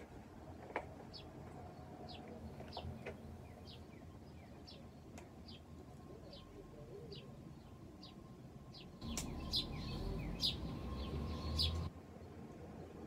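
A bird repeating a short, high, down-slurred chirp over and over, roughly once a second. About nine seconds in, a louder stretch of low rumble with a few sharp rustles lasts about three seconds.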